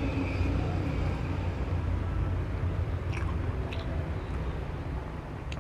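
A person chewing a mouthful of fried instant noodles, with a few faint clicks partway through.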